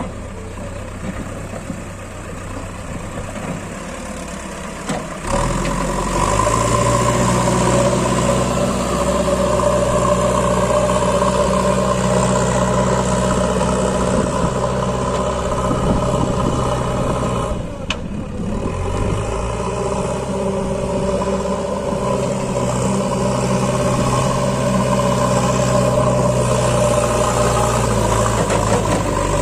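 Heavy diesel engine running steadily, then pulling harder about five seconds in. It eases off briefly a little over halfway through, then picks up again.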